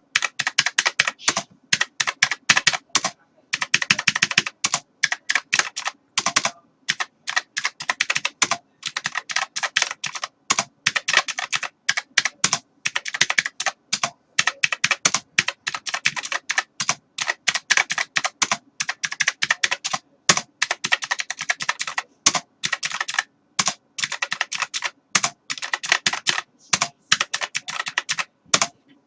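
Typing on a computer keyboard: rapid, continuous key clicks in runs of a second or two, broken by brief pauses.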